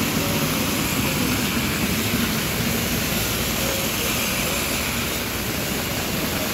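Heavy tropical downpour: rain falling in a steady, even rush with no breaks.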